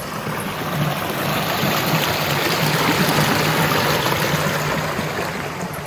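Stream water rushing over a low-water ford, a steady wash that grows louder toward the middle and eases off near the end.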